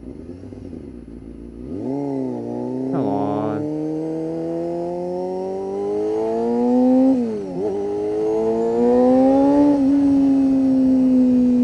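1992 Honda CBR250RR's high-revving inline-four engine, through an aftermarket Musarri exhaust, accelerating hard. The revs jump up about two seconds in and climb steadily, drop sharply at a gear change about seven and a half seconds in, climb again, then ease off slightly near the end.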